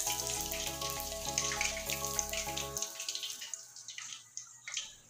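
Chicken pieces sizzling in hot oil while being deep-fried a second time. The sizzle thins out in the second half into scattered crackles as the pieces are lifted out of the oil.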